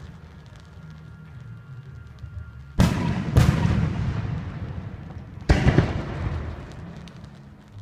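Aerial fireworks shells bursting at close range. There are three sharp bangs: two about half a second apart near the middle, and a third about two seconds later. Each is followed by a rumble that fades out.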